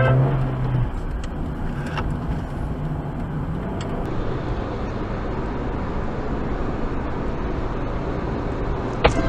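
Steady road and engine noise of a moving vehicle, with a brief loud pitched sound near the end.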